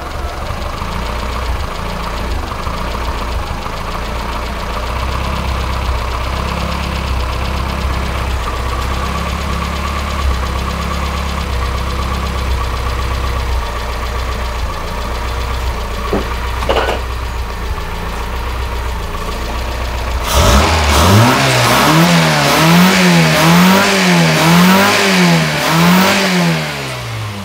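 Austin Metro's BMC A-series engine idling steadily with its newly set ignition timing and fuelling, then blipped: about six quick revs up and down from a little past two-thirds in, dropping back toward idle near the end.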